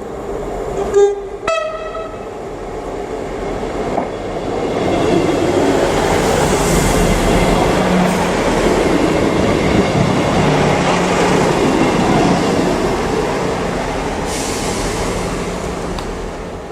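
Train horn giving two short blasts, the second higher than the first, then a train passing along the rails, its rumble building and fading over about ten seconds.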